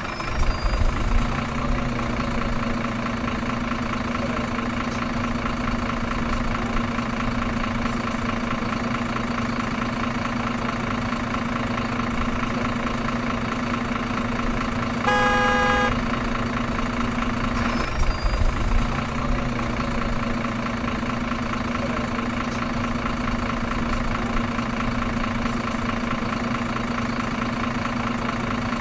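Truck engine running steadily at a low idle-like drone. About fifteen seconds in, a horn honks once for about a second.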